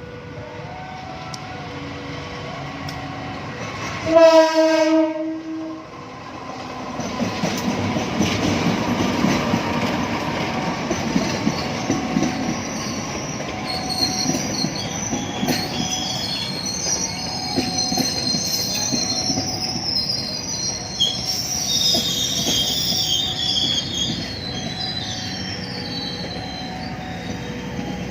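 A passing train sounds one long horn blast about four seconds in, then rolls by close, its wheels running over the rails with a high-pitched wheel squeal through the middle. A level-crossing warning alarm chimes steadily underneath.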